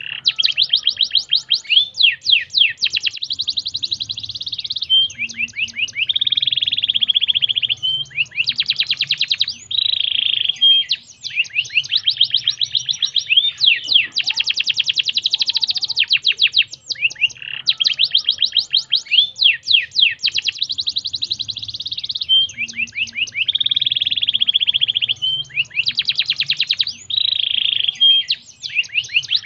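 Canary song: a continuous run of rapid repeated sweeping notes alternating with buzzing, rolled trills, high-pitched, with only brief breaks between phrases.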